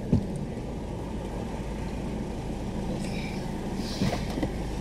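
Car engine idling with a steady low rumble, heard from inside the car's cabin.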